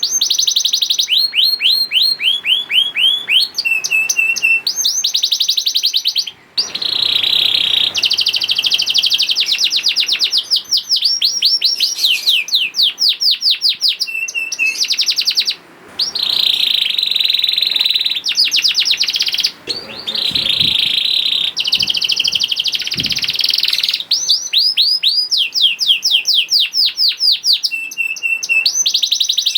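Domestic canary singing continuously in fast trills and rolls: runs of rapid, repeated high sweeping notes that change from phrase to phrase, with only brief pauses between.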